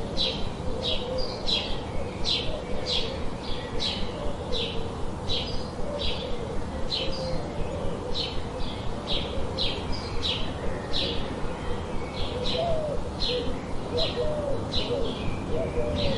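Birds calling: a steady series of short, high chirps repeating about twice a second, over softer wavering low notes and a constant background hiss.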